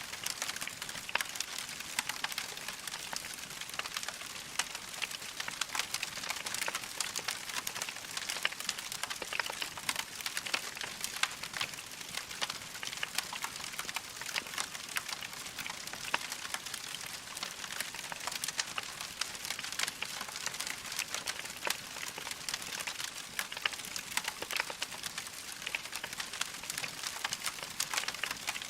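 Wood logs burning in a fireplace, crackling steadily: a dense run of small pops and snaps over a soft hiss.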